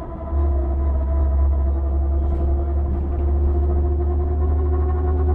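Steady low rumble and drone of a Volvo vehicle running, with several steady humming tones over it; it grows louder about a third of a second in and then holds even.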